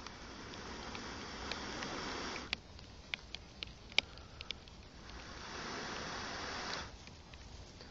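Rain pattering with scattered sharp drips and ticks, broken by two spells of rustling about two seconds each: one at the start and one about five seconds in.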